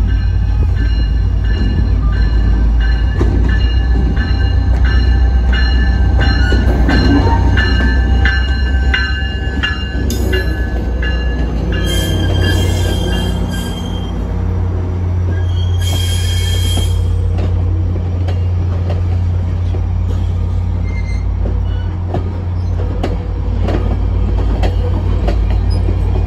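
Caltrain diesel-hauled train passing close at low speed: the locomotive's engine rumbles low and steady while the wheels squeal in high, held tones over the first ten seconds, with clicks from the wheels. Two short, bright hissing squeals come about twelve and sixteen seconds in.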